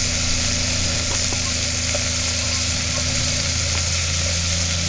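Sliced tomatoes, onions and chilies sizzling steadily in hot oil in a pot over a wood fire, over a steady low engine-like hum.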